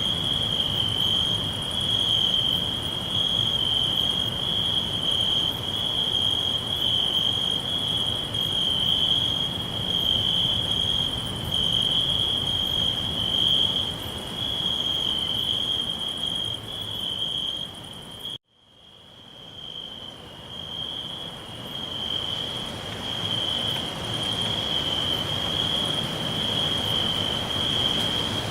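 Crickets chirring together in a steady, high, pulsing trill over a soft background hiss. About two-thirds of the way through the sound cuts out suddenly and swells back in over a few seconds.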